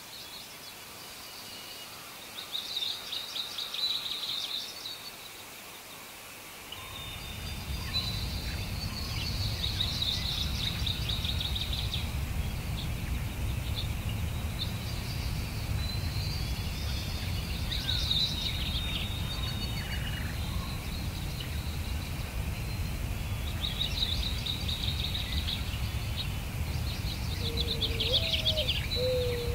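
Songbirds singing outdoors in repeated short, trilling phrases. About seven seconds in a steady low rumble starts suddenly and stays under the birdsong, and near the end a short low call rises and falls in pitch.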